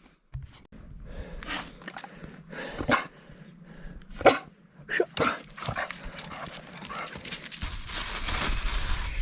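A dog's short yelps and whines, several in a row, with scuffling. Near the end a steady low rumble and hiss like wind on the microphone takes over.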